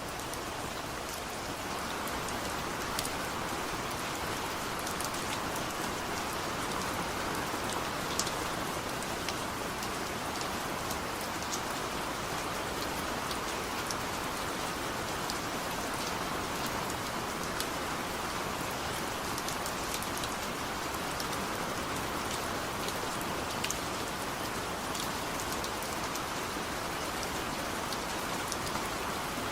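Steady rainfall, an even hiss of rain on a surface with scattered sharper ticks of single drops.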